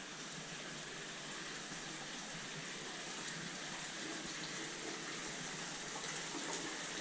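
Steady rush of running water, growing slightly louder.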